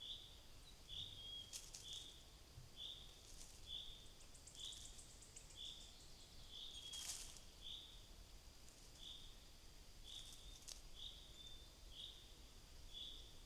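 A small songbird calling over and over at the feeder, faint short notes about one and a half a second in a steady series. A few sharp clicks come in between, the loudest about halfway through.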